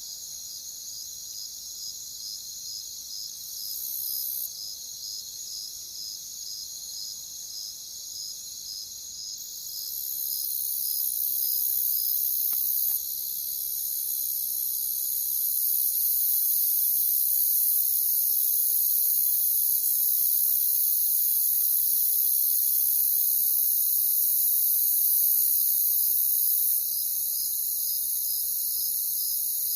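Crickets chirping in a dense, steady chorus. One cricket's chirps stand out at about two a second for the first half and again near the end, and the chorus grows louder a third of the way in.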